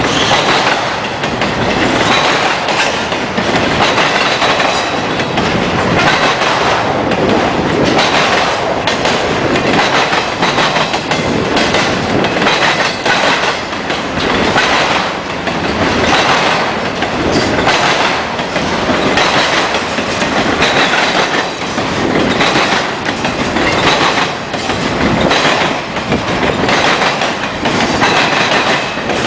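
Freight cars rolling past and clattering over a railroad crossing diamond, their wheels banging through the crossing in a repeating rhythm that swells about every two seconds as each car's trucks cross, with some wheel squeal.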